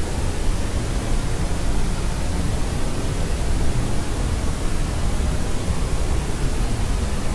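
Steady, unchanging white noise weighted toward the low end, a rumbling hiss like pink noise, with no crying or other sound over it.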